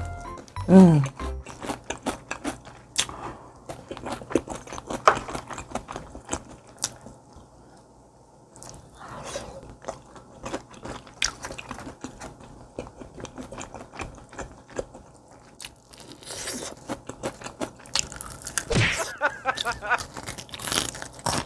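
Close-up eating of crispy fried chicken: many sharp crunches of the fried crust being bitten and chewed.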